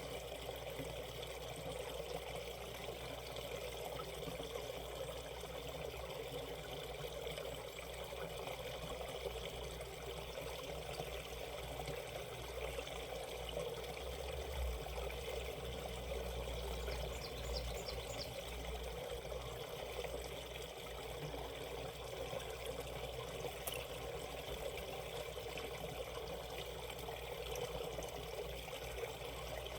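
Shallow valley stream running over stones in steady rapids, an even rush of water. A short run of faint high chirps comes a little past the middle.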